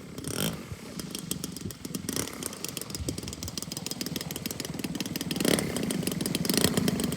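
Small engine of a radio-controlled model airplane running at a low, steady idle, growing louder from about five seconds in.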